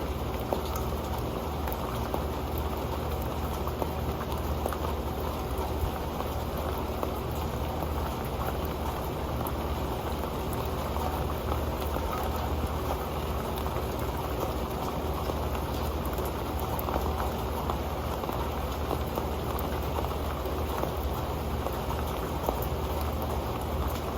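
Rain falling onto an old pan: a steady patter of drops, with scattered single drops ticking on the pan.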